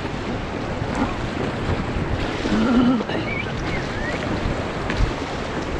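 Steady rush of river water with wind buffeting the microphone on a raft. A faint voice is heard briefly about halfway through.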